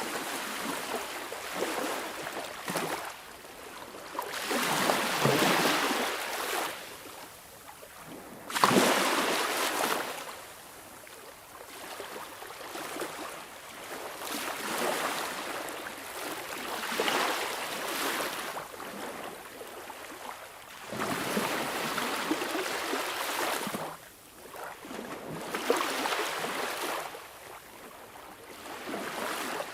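Sea waves washing in and drawing back, a hissing rush that swells and fades every three to four seconds, with a sharper, louder break about nine seconds in.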